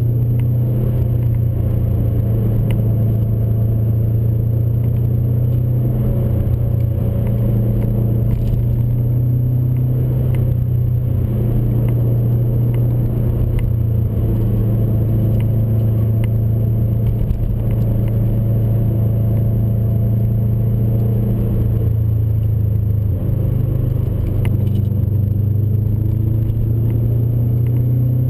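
Turbocharged flat-four boxer engine and exhaust of a 1999 Subaru Impreza WRX on the move, the exhaust note holding at fairly steady revs with small rises and dips. A few faint clicks sound over it.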